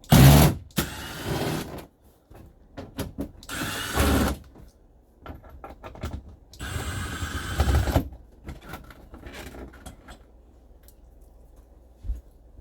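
A power drill/driver backing out dash screws in three short runs, each a second or two long, with small clicks and handling sounds in between.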